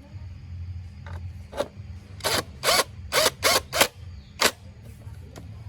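About seven short, loud ratcheting strokes from a mechanism, irregularly spaced over about three seconds, over a steady low hum.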